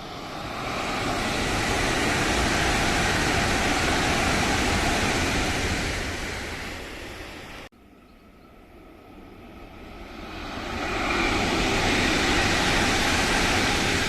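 Two Tohoku Shinkansen high-speed trains passing, each a loud rush that swells and fades. The first pass is cut off abruptly about halfway through, and the second peaks near the end.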